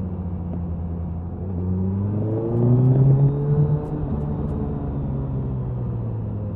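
Suzuki Hayabusa inline-four exhaust at speed: a steady cruising note that rises in pitch as the throttle opens about two seconds in, is loudest around three seconds, then drops back to a steady note, with wind noise throughout.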